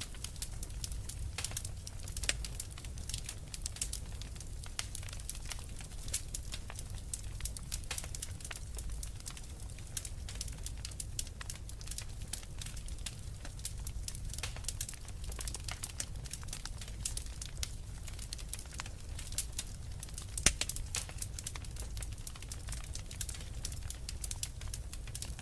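Wood fire in a fireplace crackling, with many small irregular pops over a low steady rumble of the flames, and one sharper pop about twenty seconds in.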